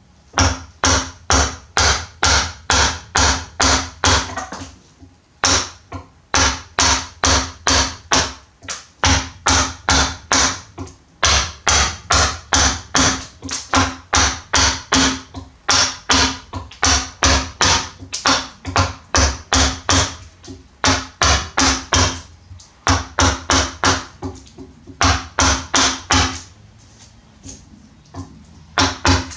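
Rapid, regular tapping strikes on wood, about three a second, in runs of several seconds broken by short pauses.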